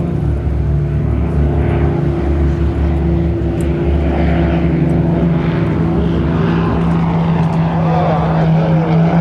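Propeller aerobatic airplanes, an Extra 300 and an MX2, droning steadily and loudly in formation flight.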